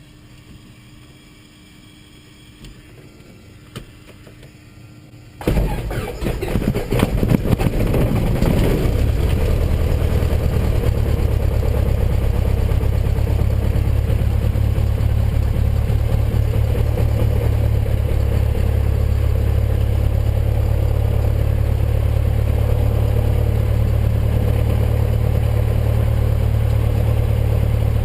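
Cessna 172N's Lycoming O-320 four-cylinder piston engine started: it cranks and catches suddenly about five seconds in, runs unevenly for a few seconds, then settles into a steady low-power run.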